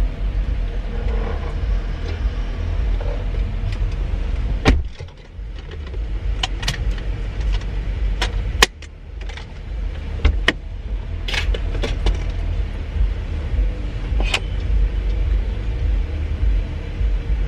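Car in motion heard from inside the cabin: a steady low rumble of engine and road noise, with a scattering of sharp clicks and knocks.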